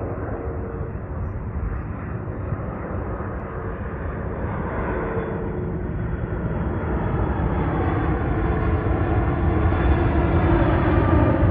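Airbus A330-200 airliner's jet engines on approach, a steady rumble growing gradually louder as the aircraft nears.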